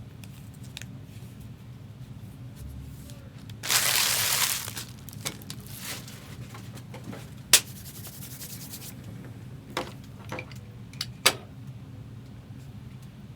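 Trading card boxes and packs being handled and opened: a rasping tear or slide of about a second about four seconds in, then a few sharp taps, over a low steady hum.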